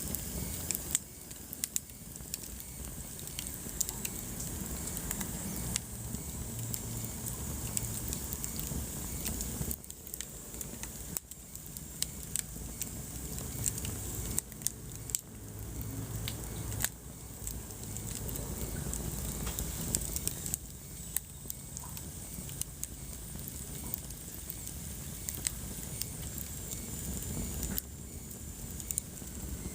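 Wood fire burning in a fireplace: frequent sharp crackles and pops from the burning logs over a steady low rumble of the flames.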